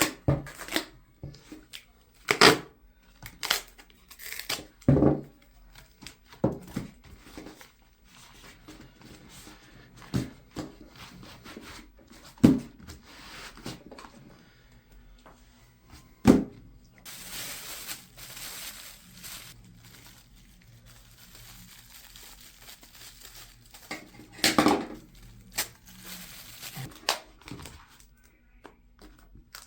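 Duct tape being worked by hand: short sharp rips and crinkles at irregular intervals, with a longer hissing pull of tape off the roll about two-thirds of the way through.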